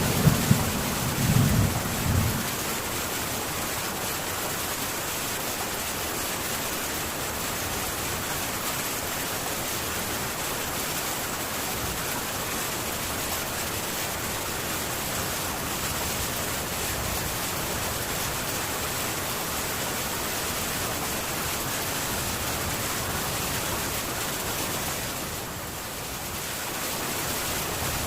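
Heavy rain falling on a metal tin roof, a steady even hiss. A thunder rumble dies away in the first two seconds or so.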